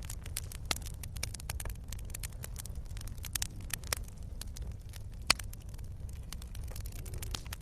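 Wood campfire crackling: irregular snaps and pops over a low steady rumble, with a louder, sharper pop about five seconds in.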